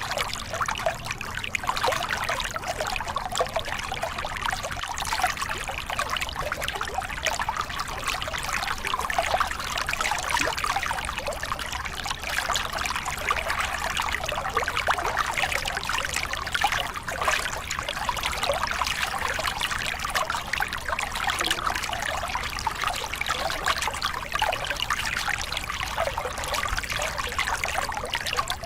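Small river cascade: water splashing and gurgling steadily over rocks, a continuous close-up trickle and pour with many small splashes.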